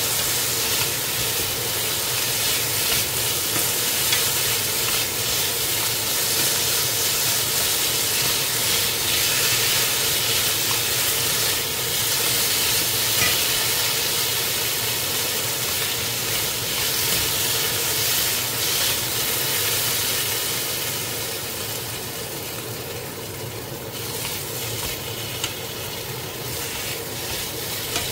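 Julienned potatoes and onion sizzling in oil in a frying pan, stirred and turned with wooden spoons that tick against the pan now and then. The sizzle eases a little about three quarters of the way through.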